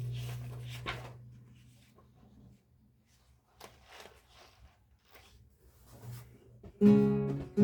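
A lute's low note rings on and dies away over about two seconds, then a pause with a few faint rustles and clicks, and a new plucked chord sounds loudly near the end.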